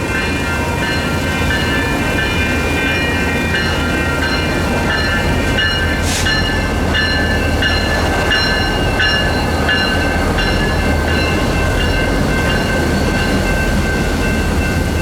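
Two EMD GP40-series diesel locomotives running past with a steady low engine hum, while the crossing's electronic bells ring in a repeating pattern over them. A single sharp click sounds about six seconds in.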